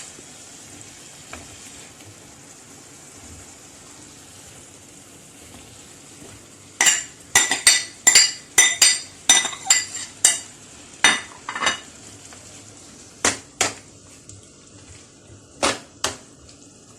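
Chopped onion, garlic and red and green peppers sizzling gently in a paella pan. About seven seconds in, a utensil knocks and scrapes against the pan in a quick run of ringing clinks as the vegetables are stirred, with a few more clinks near the end.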